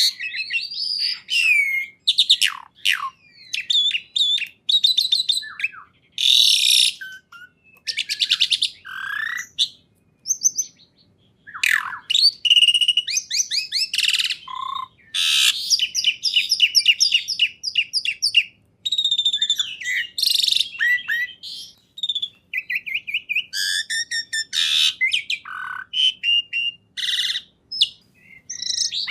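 A songbird singing a long, varied song of fast trills, chirps and sliding whistles, phrase after phrase with short pauses between them.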